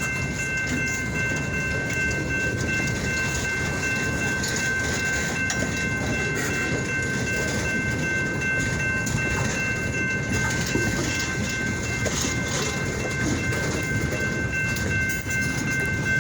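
A long freight train of railroad cars rolling past, with a steady rumble of wheels on the rails and scattered clanks. Steady high-pitched tones run through it.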